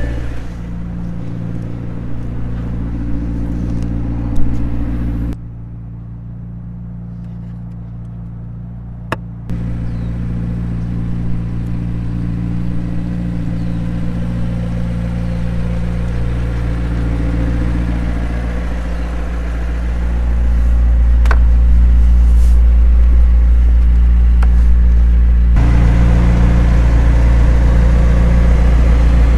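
McLaren 765LT's twin-turbocharged V8 idling steadily, heard in several cut-together takes that jump in level, with a couple of sharp clicks; the low engine note is loudest over the last third.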